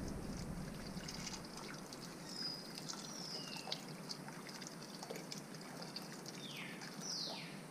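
Bird calls: several short whistled notes, then two quick falling calls near the end, over faint scattered clicks.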